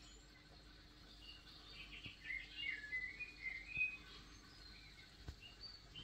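Faint bird chirping, with a quick flurry of short high chirps in the middle, over a faint steady low hum.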